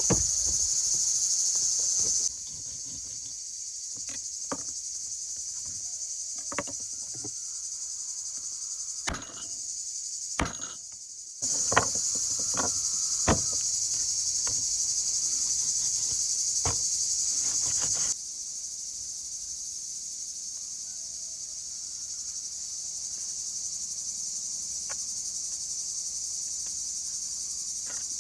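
Steady high-pitched chorus of crickets or similar insects, louder in some stretches than others, with about ten scattered sharp knocks or taps.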